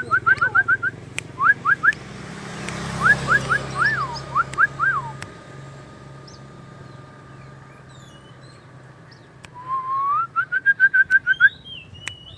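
White-rumped shama singing loud, clear whistled phrases. Each phrase is a rising whistle followed by a quick run of short up-slurred notes. After a quieter gap with faint high chirps, the same phrase comes again near the end.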